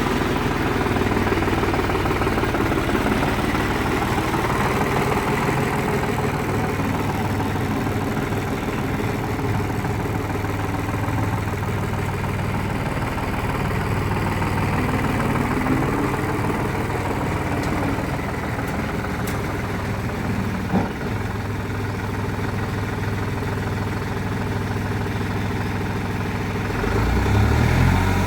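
Tractor diesel engine idling steadily, with a single short knock about two-thirds of the way through. Near the end the engine speeds up and gets louder.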